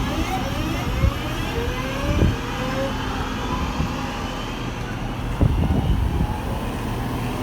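Train pulling away, its drive whine rising in pitch over the first few seconds above a steady low drone, with a couple of low thumps.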